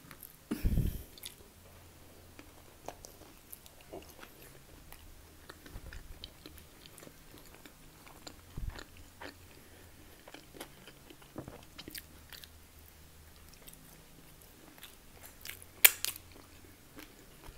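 Close-up chewing and biting of a roast dinner of pork steak, vegetables and mash, with small clicks of a knife and fork working the food. A heavy thump about a second in and a sharp click near the end stand out.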